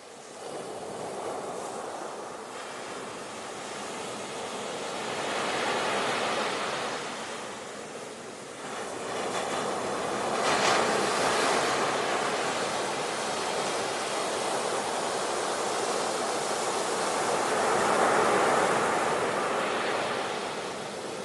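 Ocean surf: waves breaking and washing in, swelling and falling several times, with the loudest crash about ten seconds in.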